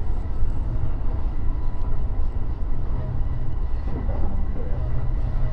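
An E233-3000 series electric train running between stations, heard from on board: a steady low rumble of wheels on rail with a faint steady whine above it.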